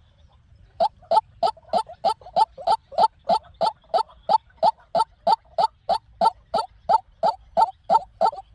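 White-breasted waterhen calling: a rapid run of short rising notes, about three a second, starting about a second in. It is a decoy bird's call of the kind played to lure waterhens.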